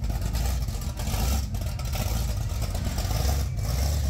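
A car engine running with a deep, low rumble, and a couple of brief dips in level.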